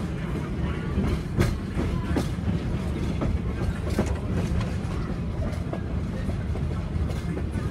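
Riding aboard a moving train: steady low rumble of the wheels on the track, with scattered clicks as they cross rail joints.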